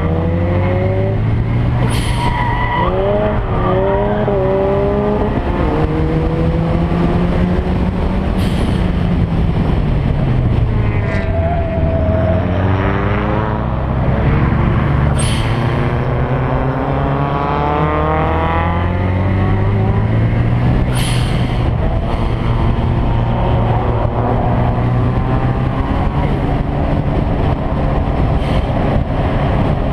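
Car engine driven hard, its pitch climbing under acceleration and dropping at each gear change, again and again. Four brief sharp cracks stand out, about six seconds apart.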